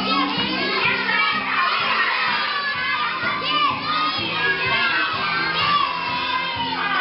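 Many young children shouting and cheering together, with children's music playing underneath.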